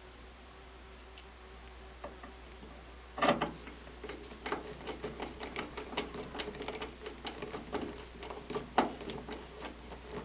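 A loud clatter about three seconds in, then rapid clicking over a faint steady motor whine: a screw being picked out and driven into the washing machine's housing.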